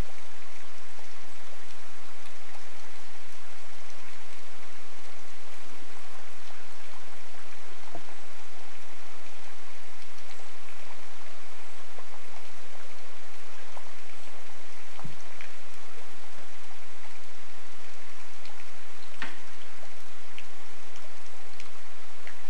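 Steady rain falling: an even hiss, with a few single drops ticking out louder here and there.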